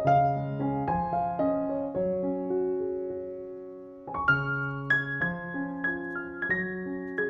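Background piano music: gentle chords and melody notes struck and left to ring. The phrase fades a few seconds in, then a new, higher phrase begins.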